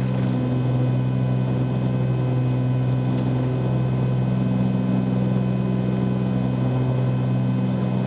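Steady drone of a Cessna 310Q's twin piston engines and propellers during the climb, heard from inside the cabin, with a slight waver in pitch about three seconds in.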